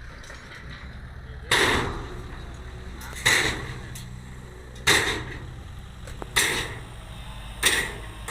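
Five loud bangs about one and a half seconds apart, each ringing out briefly, over the low steady running of a heavy machine's engine.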